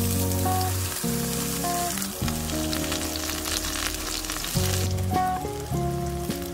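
Eggplant slices sizzling as they fry in hot oil in a wok, with a few light clicks. Background music with sustained notes plays over the sizzle.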